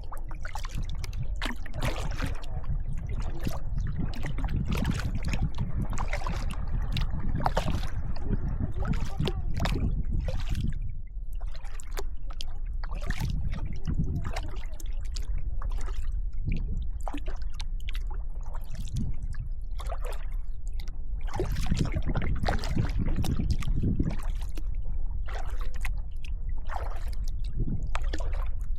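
Kayak paddle strokes: the blades dip and splash with water dripping off them, many irregular splashes over a steady low rumble.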